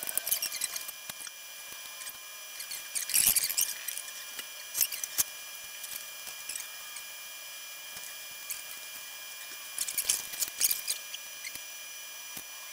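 Scattered light clicks and clinks of hand tools and metal parts being handled, bunched in quick flurries about three seconds in and again near ten seconds, over a faint steady high hum.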